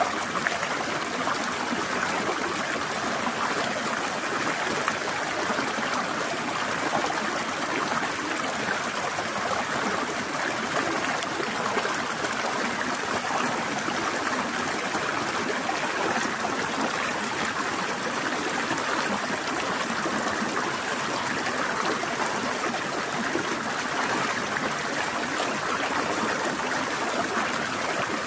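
A small forest stream flowing and trickling over rocks: a steady, even rush of water.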